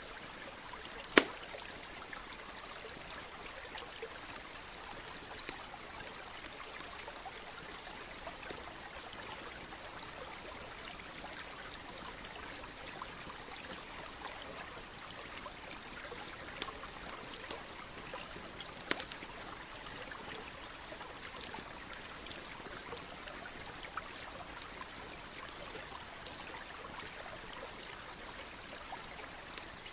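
Campfire crackling, with irregular sharp pops, the loudest about a second in and again about two-thirds of the way through, over the steady rushing of a stream.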